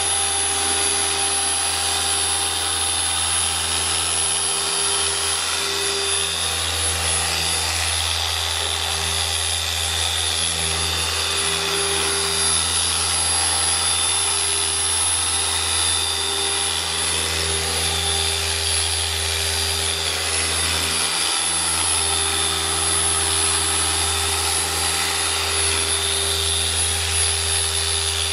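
Electric machine polisher running steadily on a truck's painted panel during the first cutting polish, a constant motor hum that holds one pitch.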